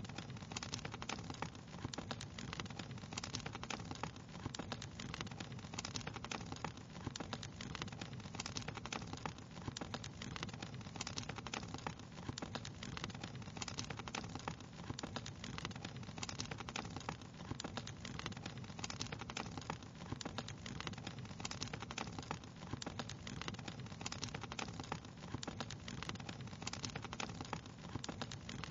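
Fire crackling steadily, with dense irregular pops and snaps over a low, constant rumble of flames.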